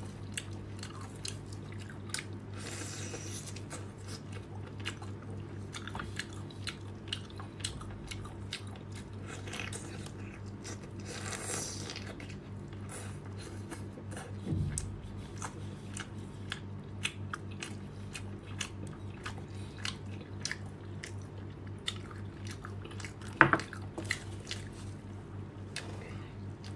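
Close-miked chewing and biting of whole baby octopus in sauce: many short, wet clicks and smacks, with a sharper, louder smack near the end. A steady low hum sits underneath.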